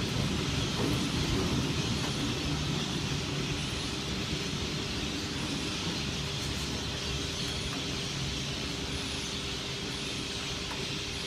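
Electric passenger train running away toward the yard, its rumble slowly fading, with a steady hum underneath.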